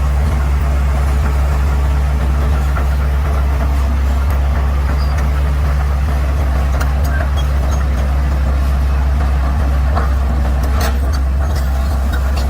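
Bulldozer's diesel engine running steadily at an even, low pitch, with a few short clicks or clanks in the second half.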